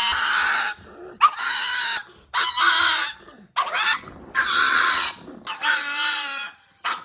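An animal calling over and over: about five high-pitched calls, each under a second long, with short pauses between them.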